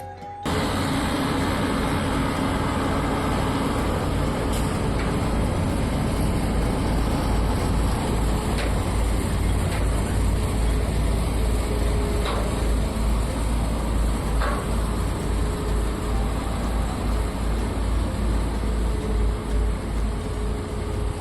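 Heavy truck running steadily with a deep, pulsing rumble, with a few faint clicks.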